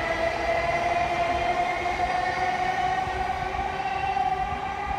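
Electric commuter train running past, with a steady high whine that rises slowly in pitch over a low rumble.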